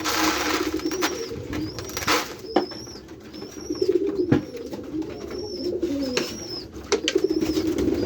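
Domestic white pigeons cooing steadily in a loft. Over it comes a thin high chirp that repeats a little more than once a second, a rustle of grain being handled near the start and again about two seconds in, and a few sharp knocks.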